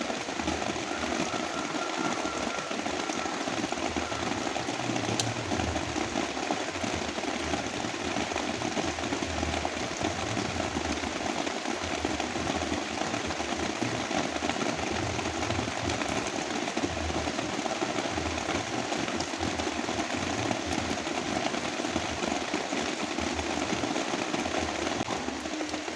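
Heavy rain pouring steadily, a dense fast patter of drops, mixed with brown noise.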